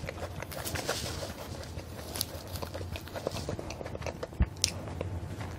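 Flaky croissant crust being torn off and chewed close to the microphone: a scatter of small, dry crackles and crunches. It is the crispy outer layer being picked off and eaten on its own.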